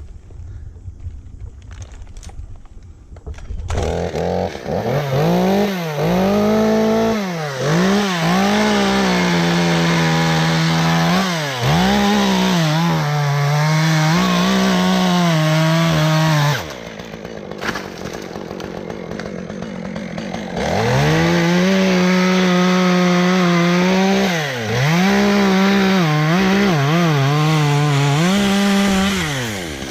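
Chainsaw running at high revs, its pitch dipping and recovering over and over as it bogs under load. It starts about four seconds in, drops out for about four seconds midway, then runs again almost to the end.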